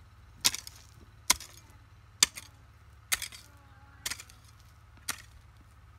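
A hoe chopping into the soil in a steady rhythm, six strikes about a second apart, each with a short rattle after.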